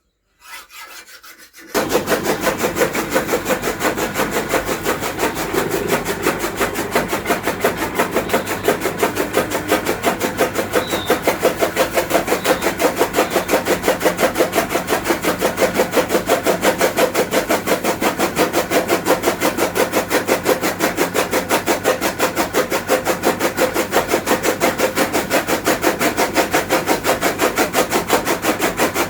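Electric-motor chaff cutter (toka machine) starting about two seconds in and running with a fast, even rasping beat, its blades rubbing against a file to sharpen them.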